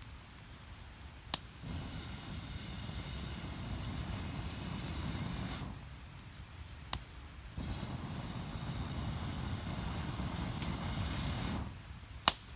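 Wood fire burning in a small fire stand, with three sharp pops of splitting wood. A low rushing noise comes and goes in surges of several seconds, dropping out about six seconds in and again near the end.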